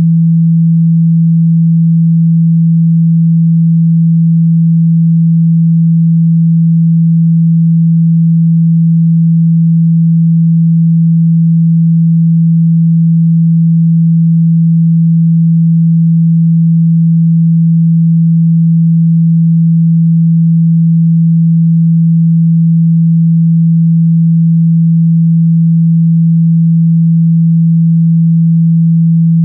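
A continuous, loud 165 Hz sine tone, a low steady hum that does not change. It is a speaker-cleaning tone, played to vibrate a phone speaker and shake out water and dust.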